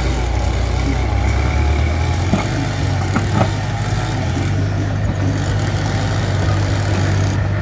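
Mitsubishi BD2F bulldozer's diesel engine running with a steady low drone, its pitch shifting slightly a couple of seconds in. A few short knocks come about two and three seconds in.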